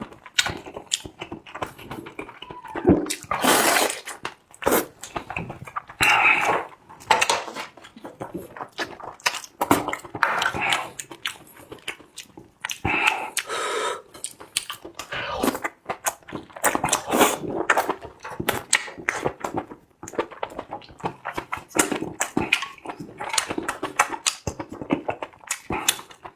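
Close-miked eating sounds: wet chewing and smacking of the mouth, with many short irregular clicks throughout.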